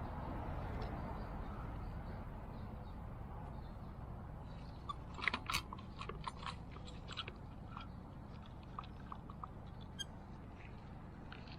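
A cluster of small sharp clicks and taps, bunched in the middle and scattered toward the end, over a steady low hum.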